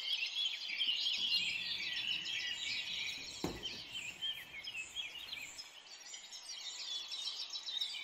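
A chorus of small birds chirping and calling, many short chirps overlapping, with one faint knock about three and a half seconds in.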